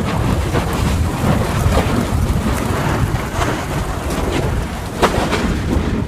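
Volcanic eruption with lava flowing: a steady low rumble and hiss with scattered crackles, and a sharper crack about five seconds in.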